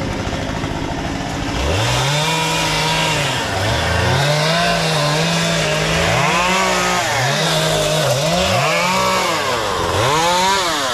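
Two-stroke chainsaw idling, then revved up to full throttle and let drop back several times as it cuts, from about a second and a half in.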